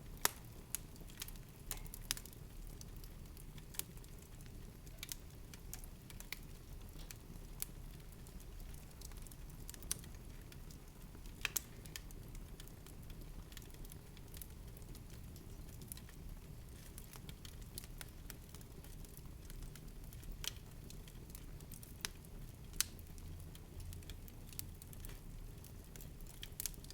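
Fire crackling: irregular sharp pops, about one or two a second, over a faint steady low rumble.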